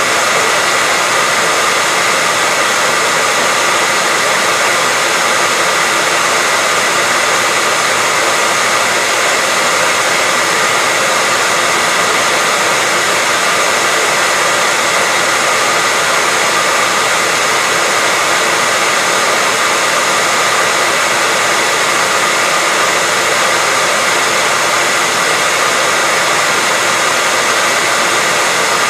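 Hair dryer running steadily: a continuous, even rushing hiss of air with a faint steady whine from the motor, with no change in speed.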